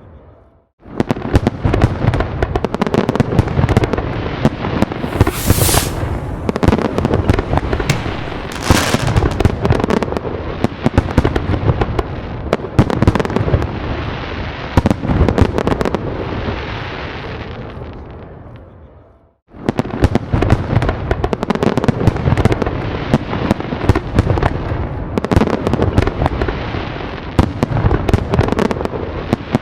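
Fireworks going off in a dense, continuous barrage of rapid bangs and crackles. It fades out a little under two-thirds of the way through, falls silent for a moment, then starts again abruptly.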